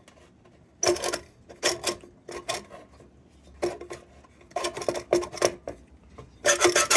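Metal lantern parts clinking and clanking as they are handled and set down, in about half a dozen short clusters of knocks with a brief metallic ring.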